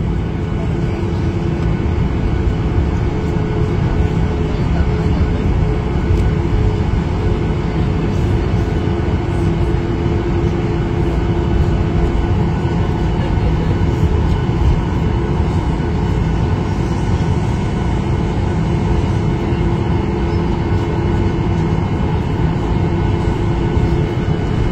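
Steady cabin noise of an airliner taxiing after landing: a loud, even low rumble from the engines, airflow and wheels, with a few steady hums held on top.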